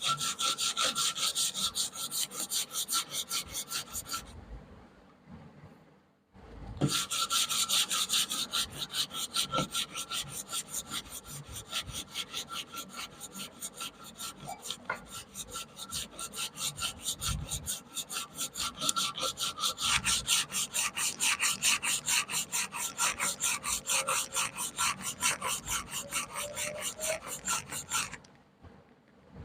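Quick back-and-forth abrasive strokes rubbing on the metal of the rusty wrench by hand, about four a second. They pause for about two seconds near the start, then run on steadily and stop shortly before the end.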